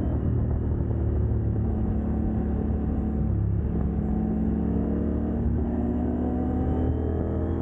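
CFMOTO 800NK parallel-twin engine running through a decatted exhaust while riding, heard from on the bike. The engine note drops briefly about three and a half seconds in, then climbs steadily as it accelerates.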